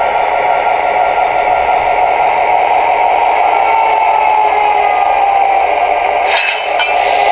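MTH Premier O-gauge SD24 model diesel locomotive running with its train: the locomotive's onboard speaker plays diesel engine sound over the steady rolling noise on the track. A brief, sharper clattering sound comes about six seconds in.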